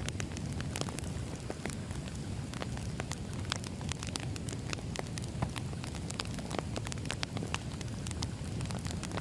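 Firewood burning: a steady low rumble of flames with frequent irregular sharp crackles and pops of the wood.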